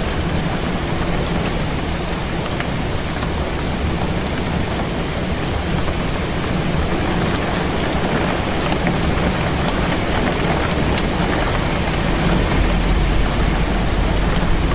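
Heavy rain falling steadily, a dense hiss with scattered drops ticking on a hard surface, over a deep low rumble that swells near the end.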